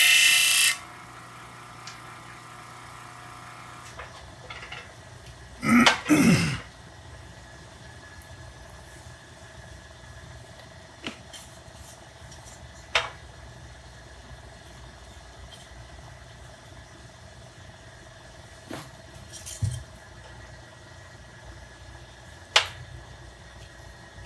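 A power tool running loudly cuts off just under a second in, leaving a low steady hum. Scattered knocks and taps of handling follow, with a short falling squeal about six seconds in.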